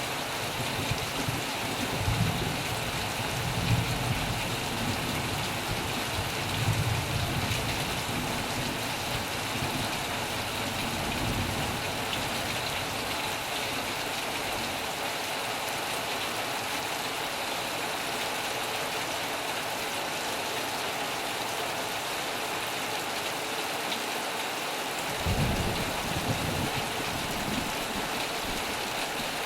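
Heavy rain drumming steadily on a metal roof, with low thunder rumbles that swell and fade through the first dozen seconds and return briefly near the end.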